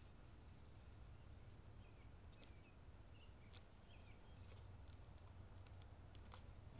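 Birds at a backyard feeder, very faint: scattered light clicks and taps, with a few short chirps about two to four seconds in, over a low steady hum.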